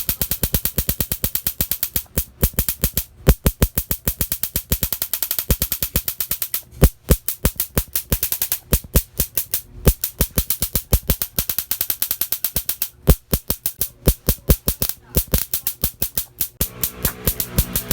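Miniature Raider 150 motorcycle's engine running with a fast, even putter, dipping several times and letting out a few louder pops: the backfire. Music with guitar comes in near the end.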